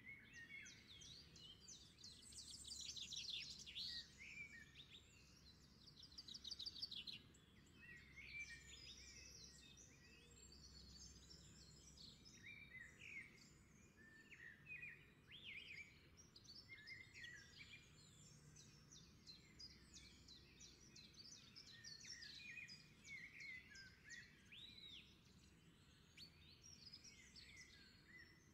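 Faint birdsong: many small birds chirping and trilling over and over, with a faint low hum underneath.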